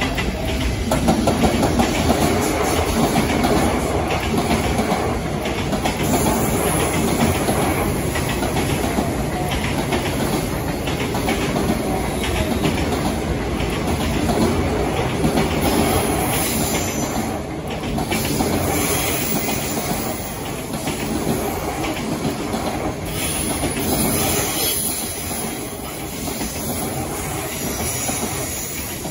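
Long freight train passing close by, its wheels clattering steadily over the rail joints with some light wheel squeal.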